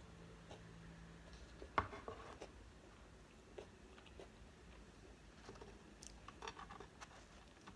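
Close-miked eating: faint chewing with scattered small mouth clicks, and one sharper click about two seconds in.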